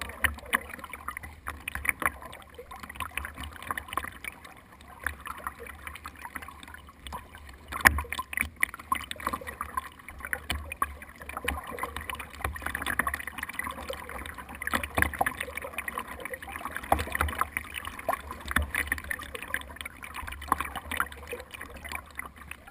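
Kayak on the water: splashing and gurgling water with scattered irregular knocks against the hull, one sharp knock about eight seconds in, over a low rumble.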